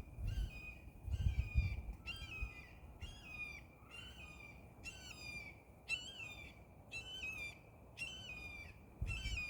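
Hawk calling: a short, high, harsh call repeated about once a second, about ten times, each note dipping slightly in pitch at its end. The uploader takes it for a red-tailed hawk. Low wind rumble on the microphone near the start and the end.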